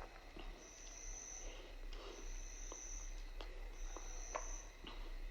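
Faint insect chirping: a high-pitched trill lasting about a second, repeating roughly every second and a half, with a few soft clicks.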